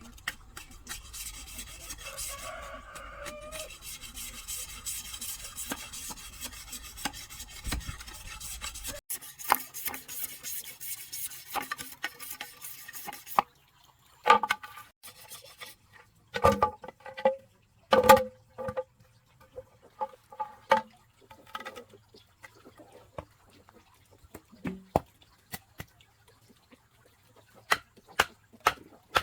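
Hand tools working wood or bamboo: a steady rasping for about the first thirteen seconds that stops suddenly, then a run of irregular sharp knocks.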